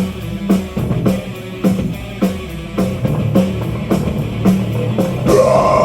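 A live metal band playing an instrumental passage: a drum kit keeping a steady beat under guitars and bass. The sound swells louder and fuller near the end.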